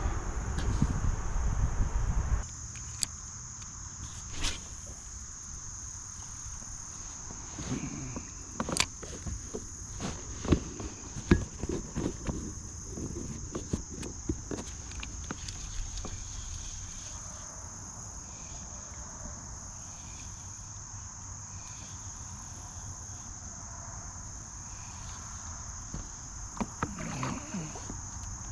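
Steady high-pitched insect chorus in summer vegetation. In the first two seconds a loud low rumbling noise masks it, then cuts off. Scattered clicks and knocks are heard, mostly in the middle and again near the end.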